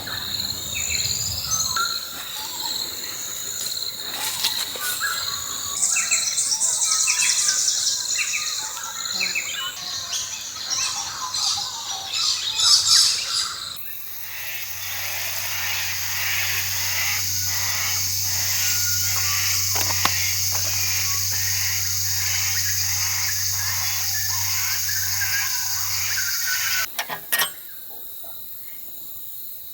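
Many birds chirping and singing. About halfway through, a steady hiss with a low hum takes over and stops abruptly near the end, followed by a sharp click.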